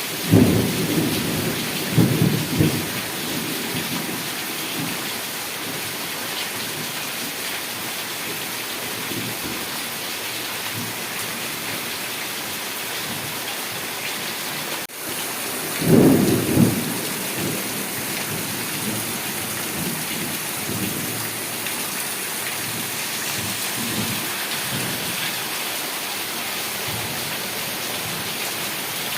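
Heavy rain falling steadily, with thunder rumbling twice: a roll just after the start lasting a few seconds, and a shorter one about halfway through.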